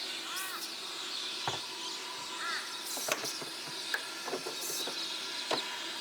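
Birds calling in short chirps and thin high calls over a steady hiss, with a few sharp clicks or knocks scattered through.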